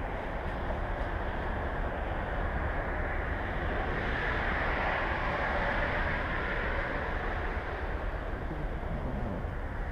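Suzuki SV650 V-twin with an aftermarket Laser exhaust running under a heavy rush of wind noise on the microphone. The wind swells up midway and eases off again.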